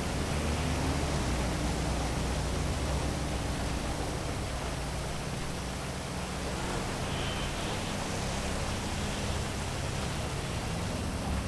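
Heavy rain falling steadily over a city, a dense even hiss, with a low rumble of traffic underneath.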